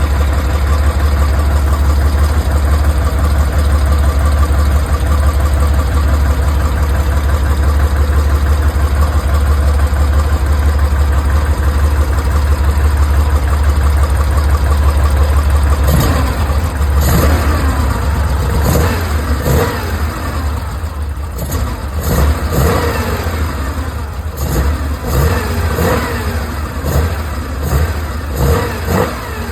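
Porsche 911 flat-six engine idling steadily, then blipped repeatedly from about halfway through, each rev rising and falling back.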